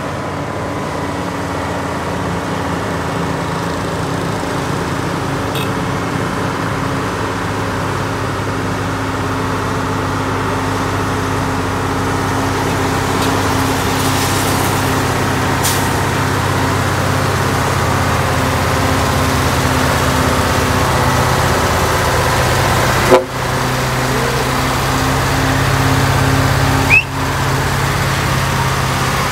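Trailer truck's diesel engine labouring steadily, growing gradually louder as it approaches, with two short sharp sounds about four seconds apart near the end.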